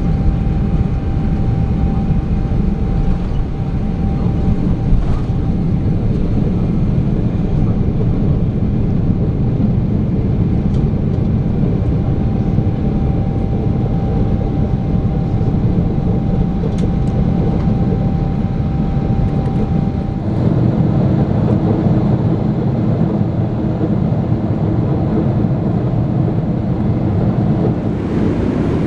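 Steady, loud cabin noise of a Boeing 777-300ER, its GE90 engines and airflow heard from inside the cabin, a deep rumble with a faint steady whine. About two-thirds of the way through, the whine stops and the rumble shifts slightly in tone.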